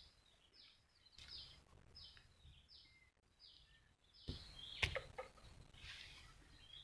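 A small bird calling faintly, a short high falling note repeated about every 0.7 seconds. About four and a half seconds in there is a sharp knock with some rustling.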